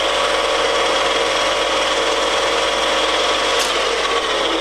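Colchester Bantam 1600 lathe running under power with its headstock gearbox in the high range, set for about 670 rpm: a steady mechanical running sound with a gear whine made of several held tones. The whine fades near the end.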